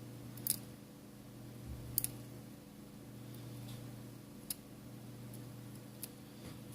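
A few faint, sharp clicks of small tools and phone parts being handled, about one every second and a half, over a steady low hum.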